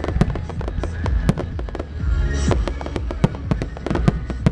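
Aerial firework shells bursting in a dense barrage, many sharp bangs in quick succession over a deep continuous rumble, as in a display's grand finale.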